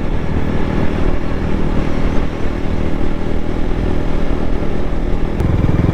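Motorcycle engine running while riding, heard from the bike with wind rushing over the microphone; the engine note gets stronger about five seconds in.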